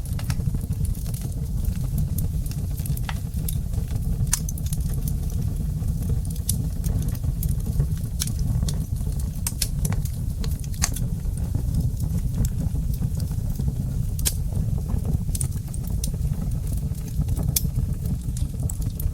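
Wood fire in a fireplace crackling: irregular sharp pops and snaps scattered over a steady low rumble.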